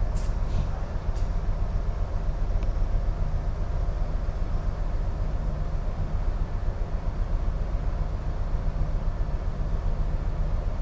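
Steady low rumble with a faint hum aboard a container ship, holding at an even level with no breaks.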